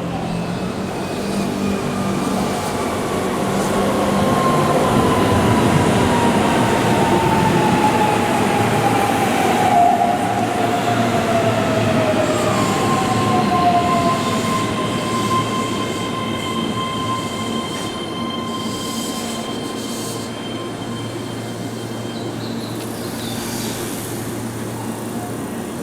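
Keihan electric train running through a curved elevated station: wheel and rail rumble swells and fades, with a whine gliding slowly down in pitch over about ten seconds. From about halfway through, a steady high-pitched squeal of the wheels on the curve is held for several seconds.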